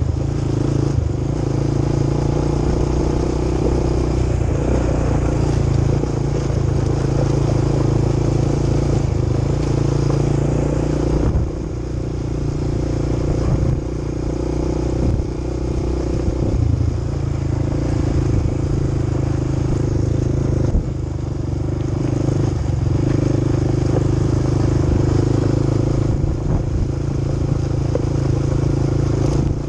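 Quad bike engine running steadily under way, its throttle easing off briefly a few times.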